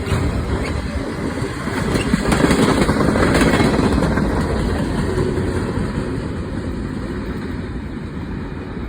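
Train passing with a steady rumble that swells about two seconds in and then slowly fades.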